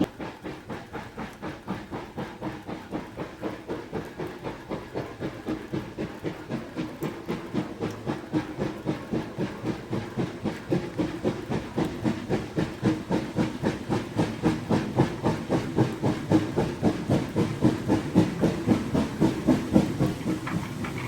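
LMS Black Five steam locomotive working hard, its exhaust chuffing in a steady beat of about three a second, growing louder toward the end as it comes closer.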